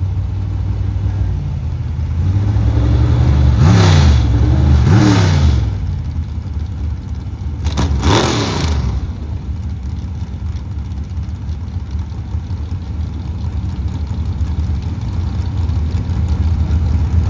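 Drag racing cars' engines running at the line, then launching and accelerating hard down the strip, the pitch rising about three to five seconds in. A second short loud rush follows about eight seconds in.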